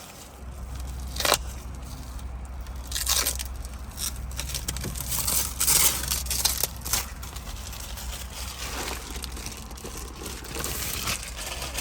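Protective plastic film being peeled off a new car and crumpled, in several rustling tears a second or two apart, over a steady low hum.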